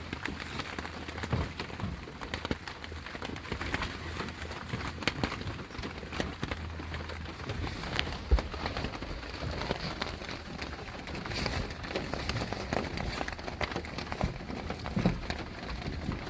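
Steady rain falling, with many irregular drops tapping and dripping; birds call in the background.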